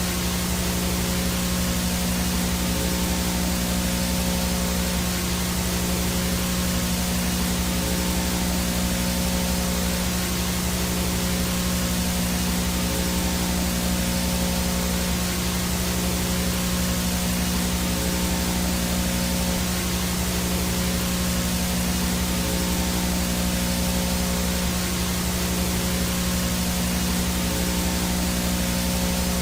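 Analog VHS/TV static with no signal: a steady, unbroken hiss with a low buzzing hum underneath and a faint high-pitched whine.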